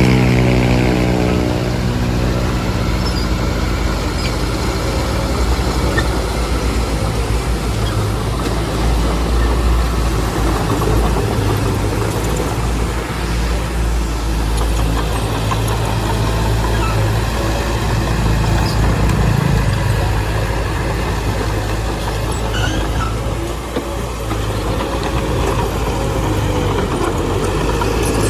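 Heavy diesel machinery engine running steadily, its revs dropping right at the start, then holding a low, even drone.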